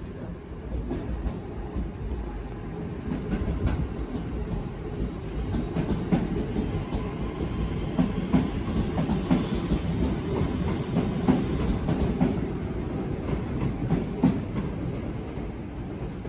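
Multiple-unit passenger train running past on a far track: a low wheel rumble that grows a few seconds in, with a run of clicks as the wheels cross rail joints and pointwork through the middle.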